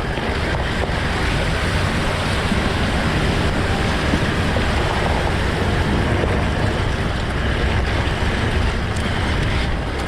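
Vehicle driving on a dirt forest road: a steady, loud rush of engine, tyre and wind noise.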